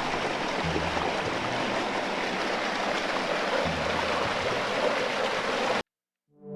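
Rushing creek water, a steady full hiss, with a few faint low music notes under it; it cuts off suddenly near the end.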